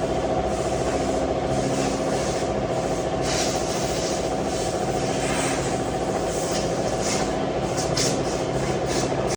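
Jeep engine running steadily at a constant speed, with several short hisses of air or spray on top in the second half.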